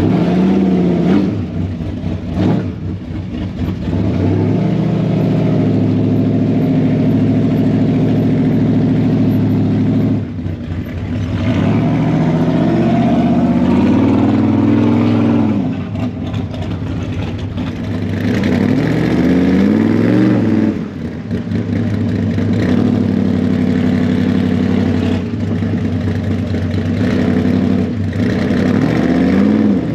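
Classic car engine running loud and steady, revved up and back down several times, the pitch rising and falling each time.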